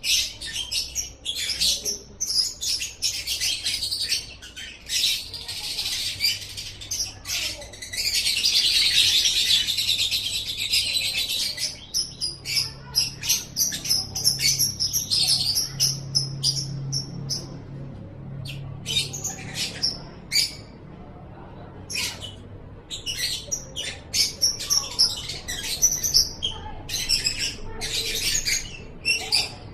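Lovebird singing in rapid, high-pitched chirps and squeaky notes, with one long, unbroken trill about eight seconds in that lasts three to four seconds.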